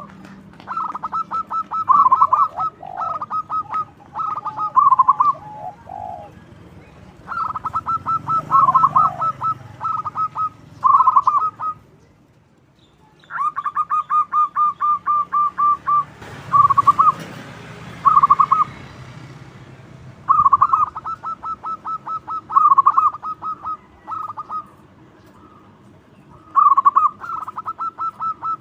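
Zebra dove singing its staccato cooing song: phrase after phrase of rapid pulsed notes with short pauses between them. A brief rustling noise comes near the middle.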